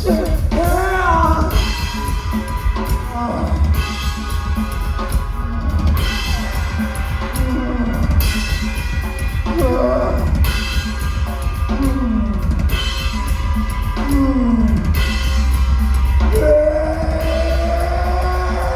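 Live rock band playing loud, with a driving drum kit and heavy bass under wavering, gliding pitched lines, heard from the crowd.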